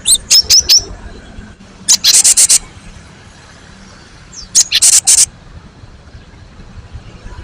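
Cinereous tit (gelatik batu) calling: three quick high whistled notes at the start, then two bursts of rapid, harsh, rattling notes about two and a half seconds apart.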